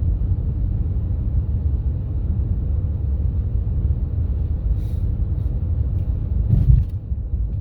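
Wind rumbling on the microphone in a snowstorm, steady, with a louder gust about six and a half seconds in.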